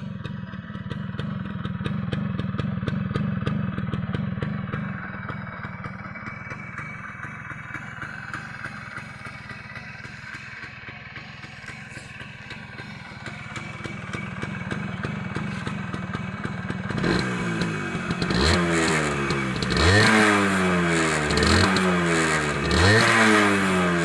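Suzuki Max 100 R two-stroke single-cylinder engine idling steadily. About two-thirds of the way through, the throttle is blipped over and over, the revs rising and falling about every second and a half.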